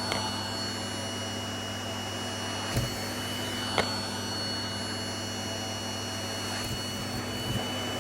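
Vacuum cleaner running steadily, sucking up loose hair, with a few light knocks at moments.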